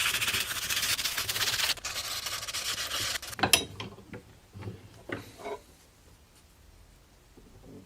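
Abrasive scrubbing on a rusty knife blade in rapid strokes, which stops about three seconds in. A few light knocks of the knife being handled follow.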